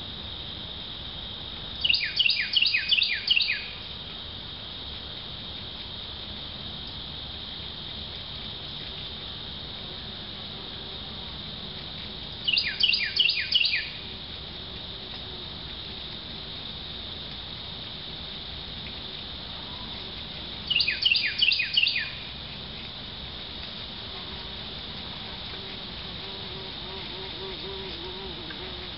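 A songbird sings the same short phrase three times, each a quick run of about six to eight downslurred whistled notes lasting a second or so, over a steady high insect drone.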